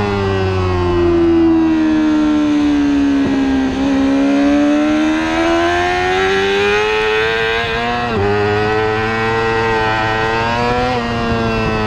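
Racing motorcycle engine under hard use: the revs fall smoothly as the bike slows, then climb steadily under acceleration, with two sharp upshifts in the second half.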